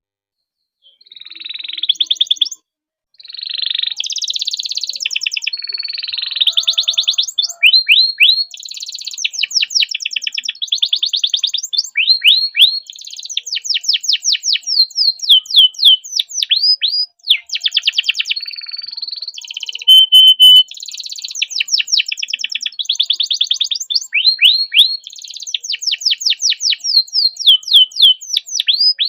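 Canary singing a long, dense song of rapid rolling trills and fast runs of sweeping notes, with only brief breaks. It starts about a second in and includes a short steady whistle partway through.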